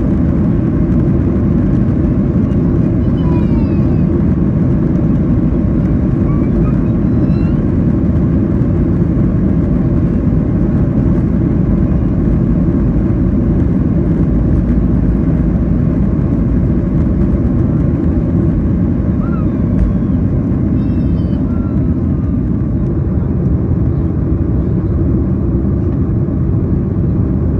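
Steady low rumble inside a Boeing 737-800 cabin: engine and airflow noise holding at an even level with no rise or fall.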